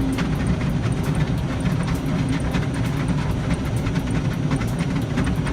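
Automatic car wash heard from inside the car: a steady machine rumble with water and washing gear spattering and slapping irregularly against the car's body.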